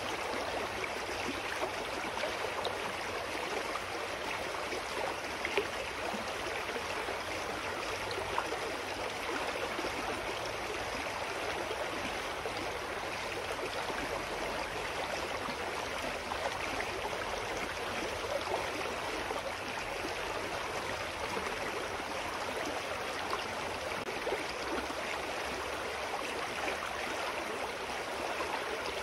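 Clear mountain stream flowing and gurgling over rocks, a steady even rush of water.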